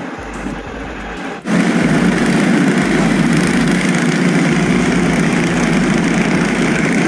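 A quieter noise, then after an abrupt change about a second and a half in, a loud, steady engine or motor running.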